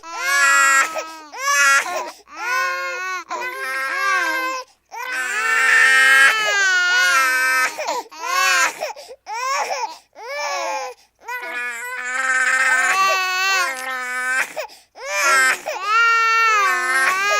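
A baby crying: repeated high-pitched wails, each a second or more long, broken by short pauses for breath.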